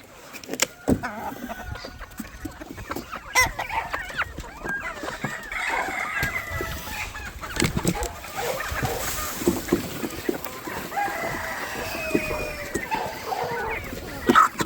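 A flock of chickens clucking, with roosters crowing, and a few sharp knocks among the calls.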